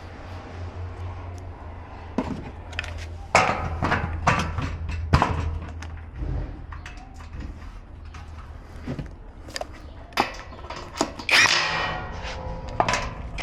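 Irregular knocks and clatters of gas grill parts being handled and fitted during assembly, with a longer rattling clatter near the end, over a steady low hum.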